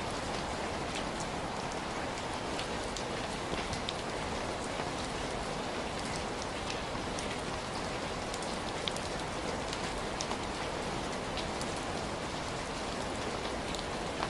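Steady heavy rain falling, a constant hiss with scattered individual drops ticking sharply on a hard surface.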